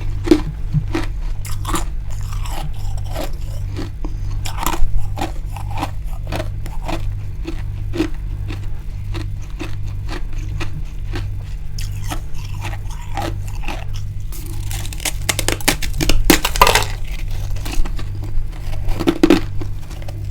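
A person chewing mouthfuls of freezer frost close to the microphone: a run of crisp crunches, with thicker bursts of crunching in the second half.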